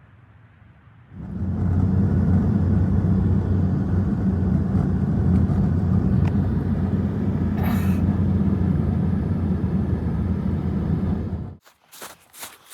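A loud, steady low rumble with a low hum in it starts about a second in and cuts off suddenly near the end, followed by a few short, sharp scraping sounds.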